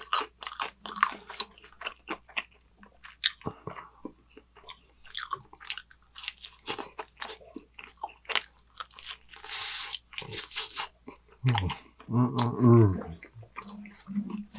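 Close-miked chewing of pepperoni pizza: wet mouth sounds broken by many sharp, crisp crunches of crust. There is a short hissing rush near ten seconds in and a low hummed "mmm" around twelve seconds.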